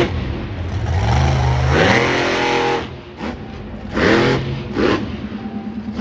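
Monster truck engine revving in repeated bursts: the pitch climbs about a second in, drops away briefly around three seconds, then surges twice more.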